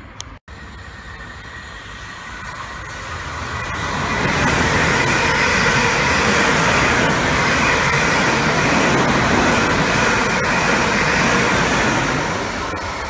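A long South Western Railway electric multiple unit passes at speed. The wheel and rail noise builds over the first few seconds, stays loud while the carriages go by, and eases off near the end.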